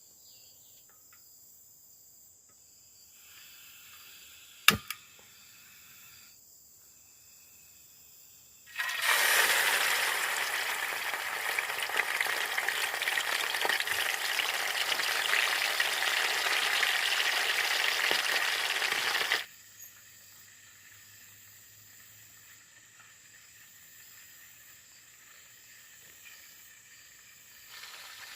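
Food sizzling in hot oil in a pan: a loud even sizzle that starts abruptly about nine seconds in and cuts off about ten seconds later. Before and after it, a faint steady high insect drone, with one sharp click a little before the five-second mark.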